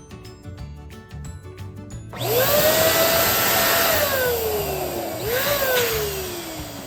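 Electric balloon pump running to inflate a balloon. It starts suddenly about two seconds in with a whine that rises, then slowly falls in pitch, jumps up briefly about three seconds later and falls again. Background music plays alongside.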